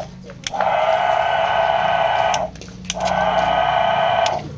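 Battery-powered key duplicating machine's motor running with a steady buzzing whine in two stretches of about two seconds and a second and a half, stopping briefly in between with a few clicks.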